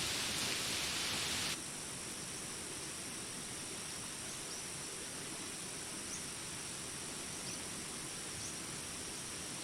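Steady rain hiss that cuts off suddenly about one and a half seconds in. It leaves a jungle insect chorus of steady high-pitched buzzing, with a few faint short chirps.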